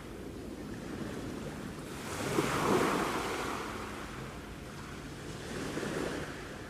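Sea waves washing in, in slow swells: one surge about two seconds in is the loudest, and a smaller one follows near the end.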